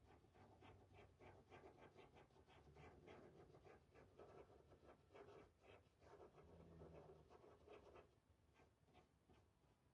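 Faint, quick scratchy taps of a stencil brush working paint through a stencil onto the surface. The taps thin out about eight seconds in.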